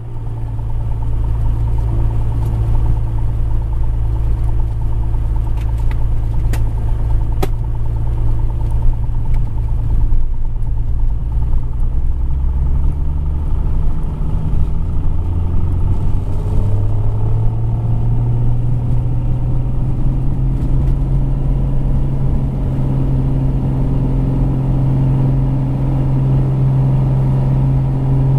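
Piper Cherokee Six 300's six-cylinder Lycoming engine and propeller running at takeoff power during the takeoff run and climb-out. The engine note shifts and settles slightly higher partway through, then holds steady.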